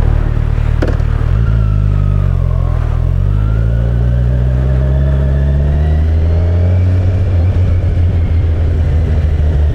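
Kawasaki Ninja 1000SX's inline-four engine running under way, its pitch falling for a few seconds as the bike slows, then rising steadily as it accelerates again. A brief click just under a second in.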